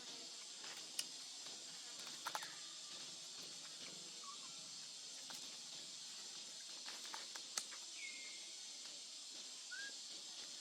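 Faint, short high squeaky calls from monkeys, four times, each sliding down and then holding briefly, over a steady outdoor hiss with a few sharp clicks.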